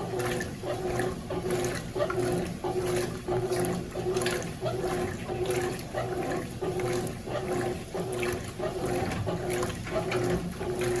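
Consul CWS12 12 kg top-loading washing machine agitating its wash load, the motor humming and water sloshing in a steady back-and-forth rhythm as the drive reverses.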